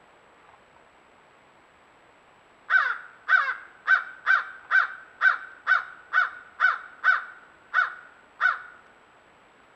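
A bird calling in a rapid series of about a dozen short, loud calls, roughly two a second, starting about three seconds in and stopping near the end.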